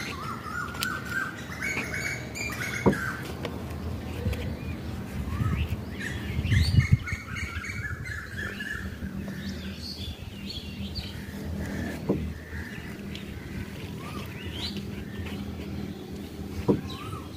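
Birds chirping in two runs of quick repeated notes in the first half, then scattered calls. Over this come a low rustle and a few sharp taps as hands press soil down around a cutting in a plastic pot.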